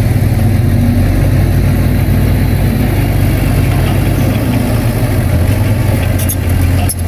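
Heavy diesel earthmoving machine's engine running steadily, with a few light clanks near the end.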